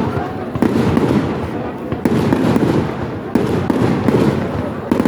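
Fireworks display going off: four sharp bangs about a second or so apart, each followed by crackling and a fading rumble.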